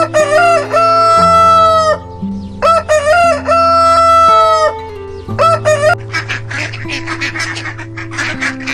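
Rooster crowing twice, each crow about two seconds long and held on a steady pitch, followed by a short call and then a run of rapid short calls, over background music.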